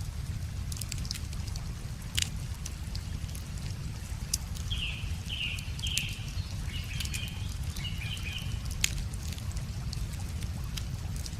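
Wood fire crackling, with sharp irregular pops, over a steady low rush of running river water. A bird calls a quick run of short chirps in the middle.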